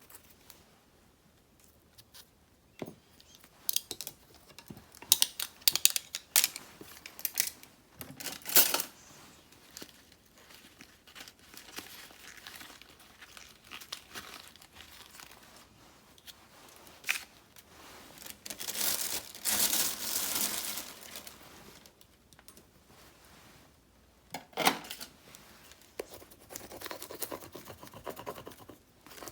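Paper stickers and sheets being handled for journaling: crinkling, scattered sharp clicks, and a longer stretch of tearing about two-thirds of the way through.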